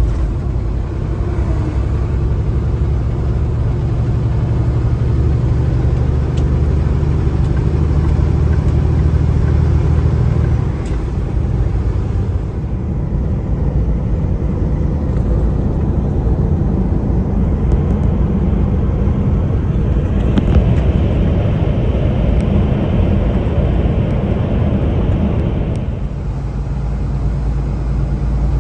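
Semi truck driving down the road, heard from inside the cab: a steady low engine drone with road noise. The engine note shifts about a third of the way in, and a hiss rises over the drone for several seconds in the second half, then stops suddenly.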